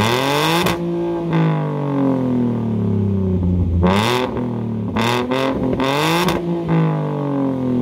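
Ford Mustang's 3.7-litre V6 revved hard about five times: the engine note climbs quickly with a loud burst of exhaust, then sinks slowly back toward idle.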